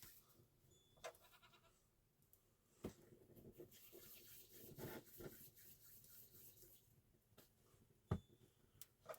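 A short, faint bleat of a farm animal about a second in, with two sharp knocks, the louder one near the end, and faint rustling in between.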